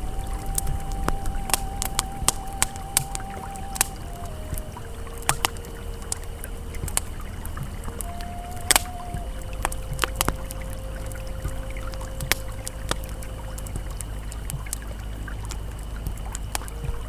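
Campfire crackling, with irregular sharp pops and one loud snap about halfway through, over the steady low rush of a flowing river. Soft sustained synth tones hold underneath and shift pitch every few seconds.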